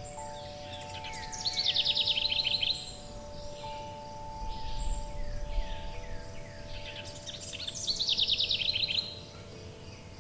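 Forest birds singing over long, ringing wind chime tones. Twice a bird sings a phrase of falling notes that ends in a rapid trill, about a second and a half in and again near the end; these are the loudest sounds.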